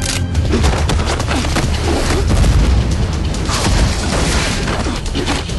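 Television fight-scene soundtrack: loud action music with a heavy deep low end, mixed with a quick run of hit and impact sound effects from the fight.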